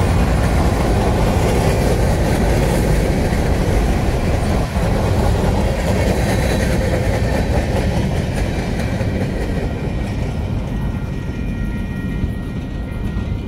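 Freight cars of a manifest train rolling past on the track, a steady noise of wheels on rail that grows quieter over the last few seconds.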